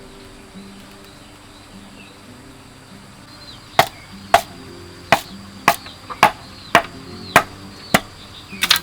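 Steady chopping with a blade: about ten sharp strikes roughly every half second, starting a few seconds in, with a quick double strike near the end. Soft background music plays underneath.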